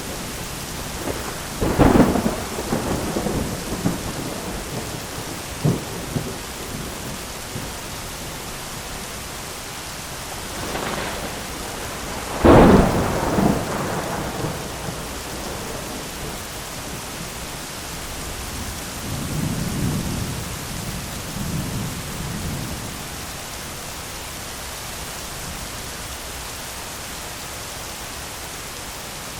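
Heavy rain falling steadily on an umbrella, with thunder: a sharp crack about two seconds in, a louder one near the middle, and a lower rolling rumble a little later.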